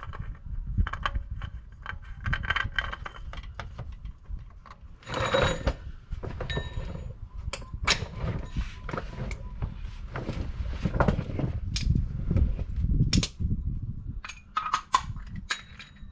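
A new spin-on oil filter being threaded onto the engine block by hand: scattered light clicks and rubbing, with a longer scraping burst about five seconds in, over a low rumble.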